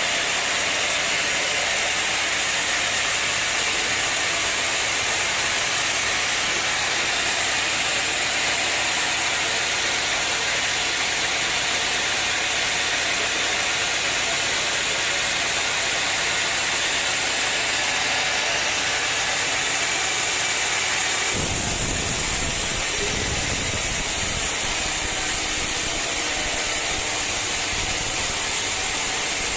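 Sawmill machinery running with a steady engine-like drone and hiss; about 21 seconds in the sound changes, with more low rumble and less high hiss.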